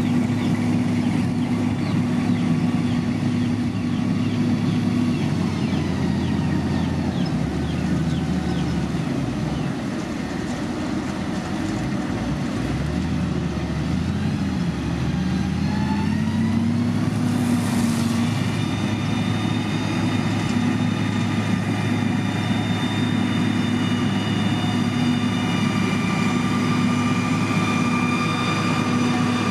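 Engine of heavy road-construction machinery running; its speed sags and wavers in the middle, then picks up again about two thirds through, followed by a short hiss.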